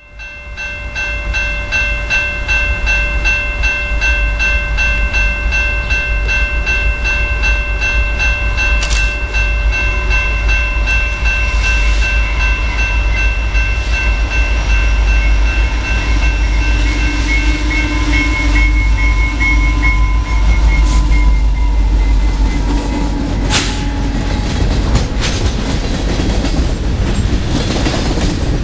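A CN freight train approaches and passes close by with a loud, steady low rumble from the locomotive and wheels on the rails. Near the end, tank cars and hoppers clatter past with a few sharp clanks. A steady ringing tone with a regular beat runs through the first twenty seconds or so, then fades out.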